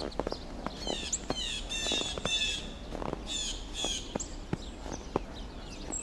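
Several small birds chirping in quick runs of short descending calls, thickest in the middle, over a few scattered footsteps in snow.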